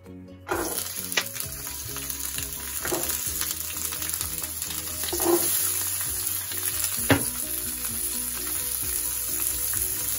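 Sliced green bell peppers and edamame sizzling as they fry in a non-stick frying pan. The sizzle starts suddenly about half a second in and stays steady, with a few sharp knocks over it.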